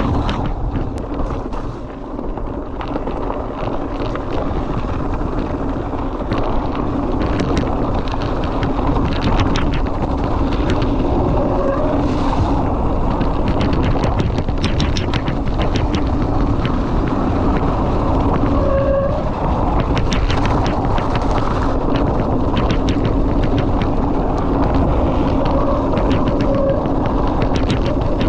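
Mountain bike being ridden over rough trail: steady wind noise on the microphone and tyre roar, with frequent rattling clicks from the bike.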